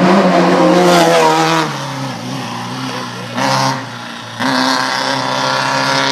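Off-road race vehicle engine revving hard, its pitch rising and wavering. It eases off about two seconds in and picks up again twice, around three and a half and four and a half seconds in.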